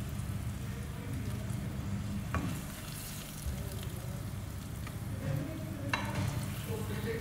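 Soya chaap pieces sizzling in shallow oil in a wok as a spatula lifts them out. The spatula knocks sharply against the pan twice, about two and a half seconds in and again about six seconds in.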